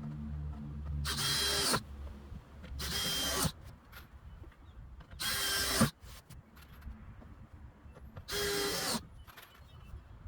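Power drill run in four short bursts of under a second each, about two seconds apart, the motor's pitch dropping as each one stops: pre-drilling or driving screws into the shelter's wooden boards.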